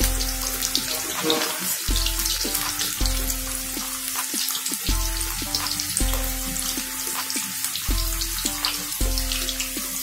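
Stuffed bitter gourds deep-frying in hot oil in a kadhai: a steady sizzle full of fine crackling, with background music of held notes over a low bass.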